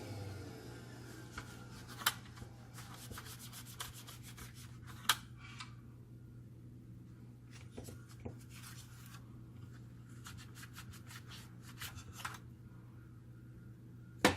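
Faint rubbing and scraping with scattered light clicks of small parts being handled, over a steady low hum: hand work on a laser printer fuser unit.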